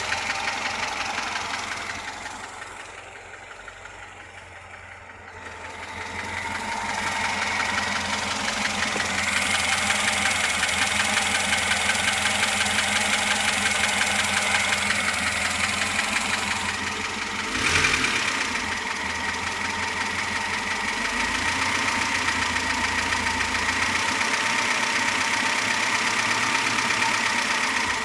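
Lada VAZ-2107's four-cylinder engine idling with a rhythmic knock from inside the engine. It drops quieter for a few seconds near the start, then comes back, with one short sharper sound about two-thirds of the way through.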